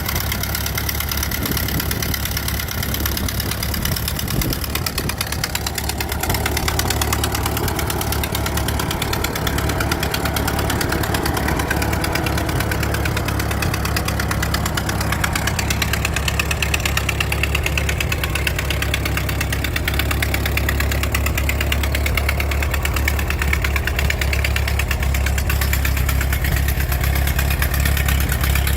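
Ford tractor engine running at a steady idle, a little louder from about six seconds in.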